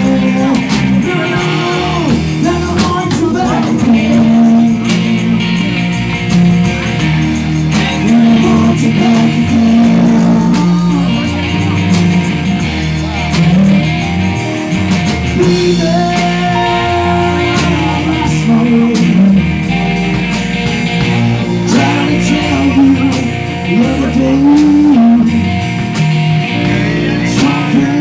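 Live rock band playing with electric guitar and a singing voice.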